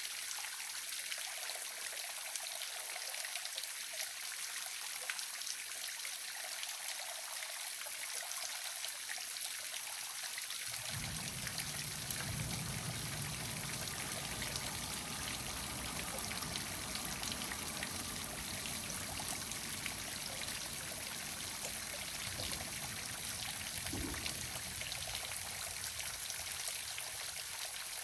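Waterfall rushing, a steady even hiss of falling water. A low rumble joins it about a third of the way in and eases off near the end, with one brief thump.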